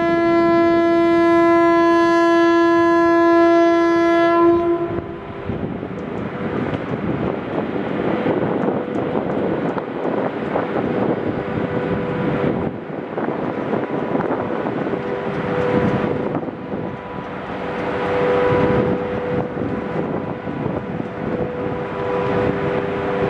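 SS8 electric locomotive's horn sounds one long, steady blast for about five seconds and cuts off. It is followed by the rumble and clatter of the passenger train pulling out, with faint humming tones coming and going.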